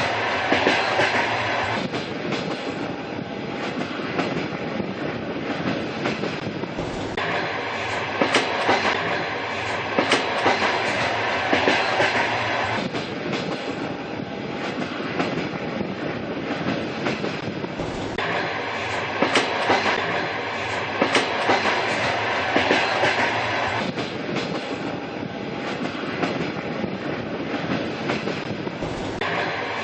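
Train running along the rails: a steady rumble with repeated clusters of clickety-clack wheel beats, and a brighter, hissier band that rises and falls every few seconds.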